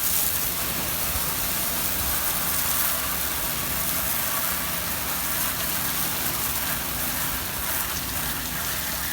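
Steady spray of water from a hose rinsing cleaner off a boat's fibreglass hull, an even hiss that starts suddenly just before this stretch and holds unchanged.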